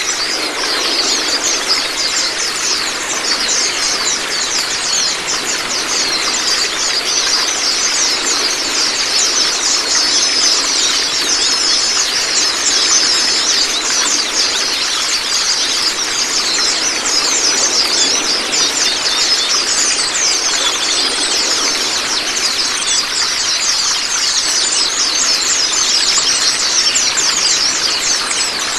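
Continuous running-water sound with a dense, rapid chatter of high small-bird chirps over it, used as a training recording for pet oriental white-eyes. A few short, steady whistled notes come in about ten seconds in.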